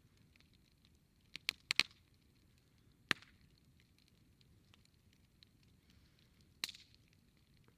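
Campfire crackling: a quick cluster of sharp pops about a second and a half in, a single loud snap around three seconds, another near the end, with faint ticks in between.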